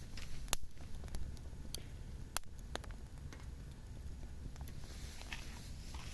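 Wood burning in a campfire, crackling with sharp irregular pops; the loudest snaps come about half a second and about two and a half seconds in, over a low steady rumble.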